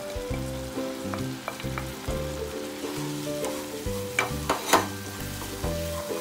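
Onions frying and sizzling in hot oil in a pan while ground turmeric, chilli and coriander are stirred in with a wooden spoon. The spoon scrapes and knocks against the pan, with a few sharp clicks, loudest a little before five seconds in.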